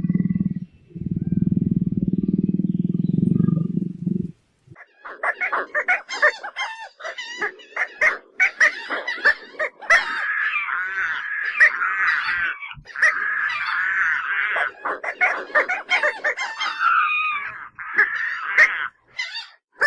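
A low rumbling growl from a large animal for about four seconds, then, after a short pause, a long run of high, rapid chattering and squawking animal calls that stops just before the end.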